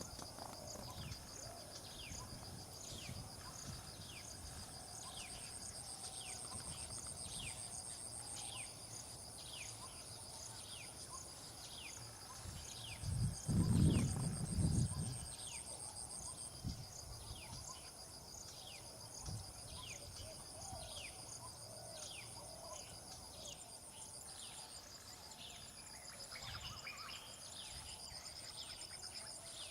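Insects trilling steadily at a high pitch, with a bird repeating a short falling note about once a second and a few brief chirps near the end. A low rumble, like a gust of wind or a bump to the microphone, comes about halfway through.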